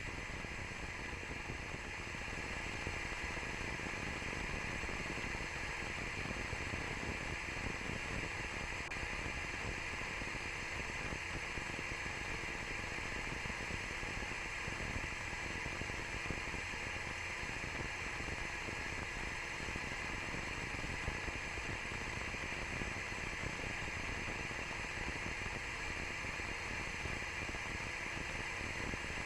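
Steady static hiss on the launch webcast's audio feed, even and unchanging throughout.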